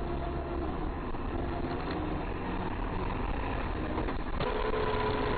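Steady driving noise of a car, engine and road rumble, picked up by a dashcam microphone. About four seconds in the clip changes and a steady two-note tone joins the rumble.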